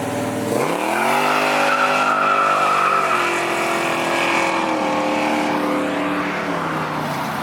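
Truck engine revved hard during a burnout, pitch climbing steeply about half a second in and held at high revs while the tires squeal, then stepping down and falling away as the throttle comes off near the end.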